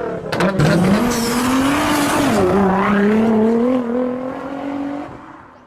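Car engine revving hard under acceleration. Its pitch drops once about two and a half seconds in, as at a gear change, then climbs again before fading out near the end.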